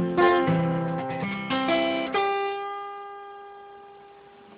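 Acoustic guitar ending the song: a few picked notes, then a final chord about two seconds in that rings on and slowly fades.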